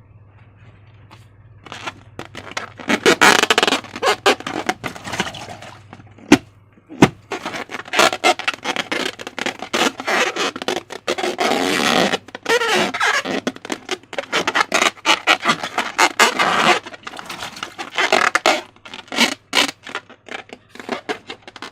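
Slime being worked by hand: irregular wet crackles, squishes and scraping, with a lull about six seconds in broken by two sharp clicks.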